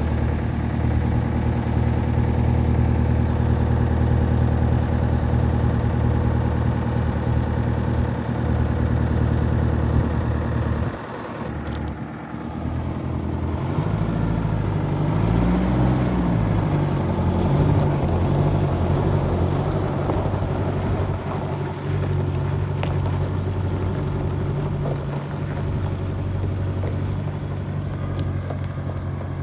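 Engine of a 1975 Chevrolet tandem-axle grain truck idling steadily. About eleven seconds in the sound drops briefly; a few seconds later the engine note rises and falls, then settles into a steady run.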